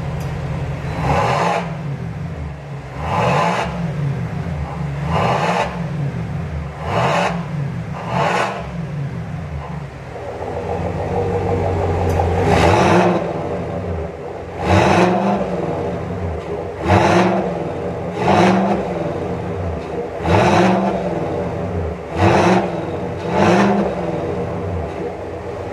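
Fifth-generation Cadillac Escalade ESV V8 through an aftermarket valved exhaust, idling and revved in about a dozen short blips, each rising and falling quickly, with a slower, longer rev near the middle.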